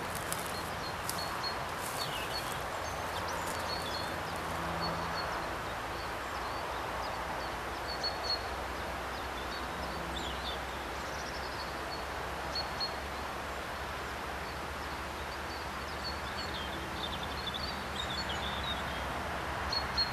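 Open-countryside ambience: small birds chirping in short, scattered calls over a low, steady background rumble.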